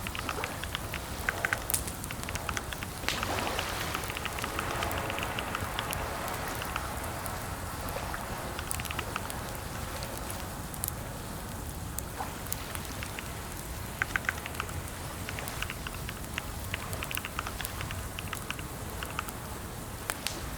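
Computer keyboard typing: irregular runs of key clicks with pauses between them, over a steady background hiss.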